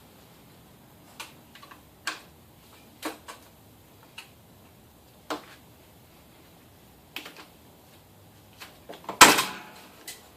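Scattered light clicks and knocks of tools and parts being handled on the car, a few seconds apart, with a louder clatter lasting about half a second near the end.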